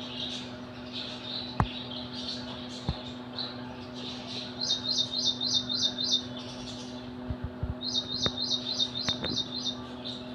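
Small bird chirping: two quick runs of about six sharp, high notes each, about halfway through and again near the end, over softer high twittering and a steady low hum.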